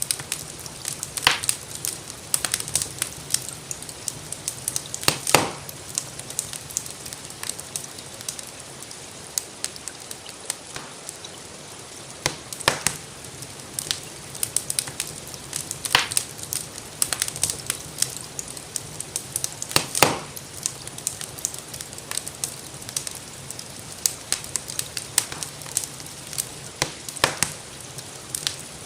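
Fireplace fire crackling with irregular sharp pops, the loudest about five and twenty seconds in, over a steady hiss of gentle rain.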